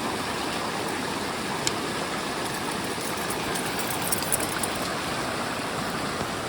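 Steady rush of a fast-flowing river running high after a week of rain.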